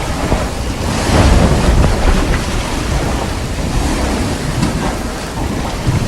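Hurricane wind and rain, with strong gusts buffeting the microphone; the gusts grow louder about a second in.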